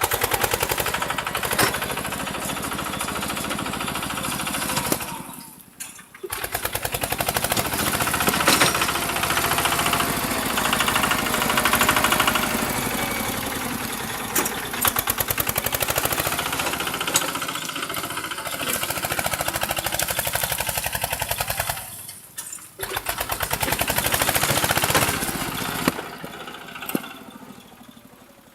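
Tractor engine running hard with a rapid, even firing beat; it drops away sharply twice, picking up again each time, and fades out near the end.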